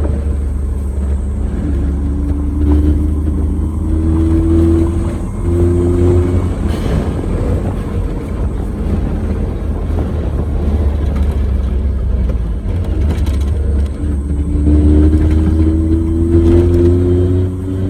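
Suzuki Jimny JA11 driving on paved road on Geolandar X-MT mud-terrain tyres: a steady low rumble of engine and tyres, with a pitched hum that climbs twice as it speeds up.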